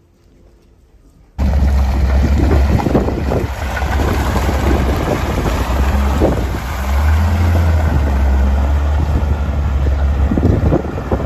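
A loud, steady low engine drone with rattling and wind noise on the microphone, cutting in suddenly about a second and a half in after a quiet stretch.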